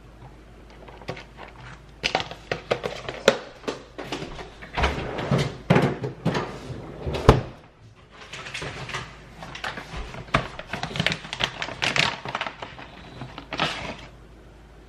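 Irregular knocks, thunks and clatters of objects being handled and set down, with a short pause about halfway through.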